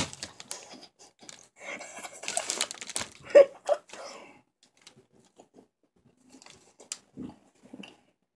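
Close-up mouth sounds of someone chewing and crunching a large chocolate bunny, with crinkly, crackly noises. These are densest in the first half, with one sharper, louder sound about three and a half seconds in, then they thin out to scattered small clicks.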